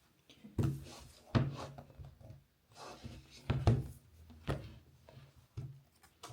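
A series of irregular knocks and thuds of hard objects being handled and set down, about eight in all, the loudest ones around a second and three and a half seconds in.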